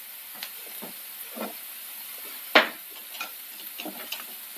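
Shallots, crushed dried red chillies and curry leaves sizzling gently in coconut oil in a pan, with scattered small clicks and one sharp knock about two and a half seconds in.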